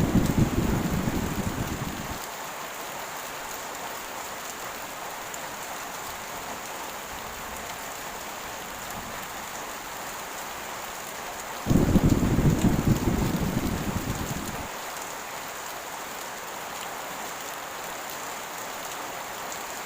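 Steady heavy rain hiss with two low rumbles of thunder: one fading out in the first two seconds, another starting suddenly about twelve seconds in, dying down over about three seconds and cutting off abruptly.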